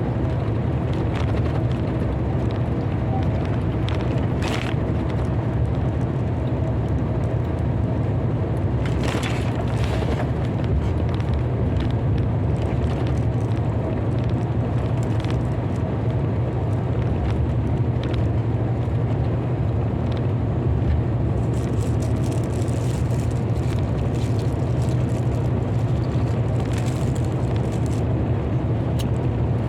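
Steady low hum of a running vehicle engine, holding an even pitch, with a few faint brief crackles over it.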